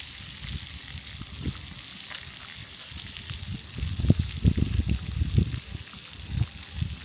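Breakfast food sizzling in a frying pan: a steady frying hiss, with irregular low rumbles that grow loudest in the second half.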